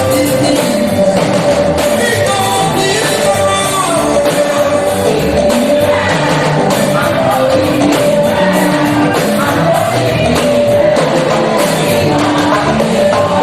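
Church choir singing gospel music with live band accompaniment and a steady percussion beat.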